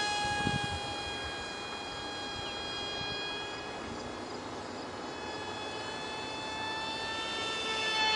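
An ultra micro RC foam jet's 8 mm motor and direct-drive prop whining steadily at a high pitch. It drops off after the first second and grows louder again near the end as the plane comes back close.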